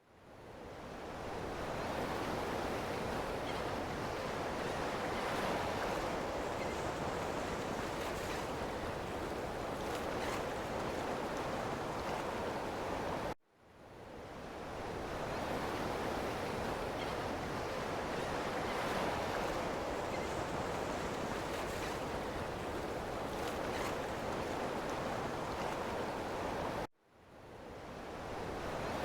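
Ocean waves washing on the shore in a steady, unbroken surf noise. The sound cuts out abruptly about halfway through and again near the end, fading back in over a second or two each time, as a short recording loops.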